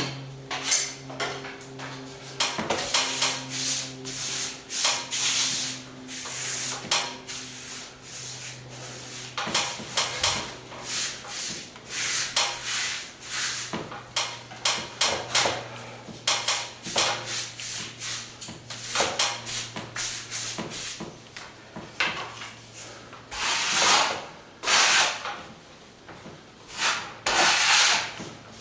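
Plastering hand tool scraping and rubbing over a plaster wall in repeated irregular strokes, with a steady low hum underneath.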